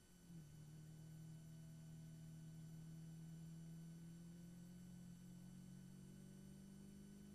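Faint, steady drone of a Caterham Seven race car's engine, heard from the cockpit under acceleration. A brief break right at the start is followed by a lower note, typical of an upshift, and the note then climbs slowly as the speed builds.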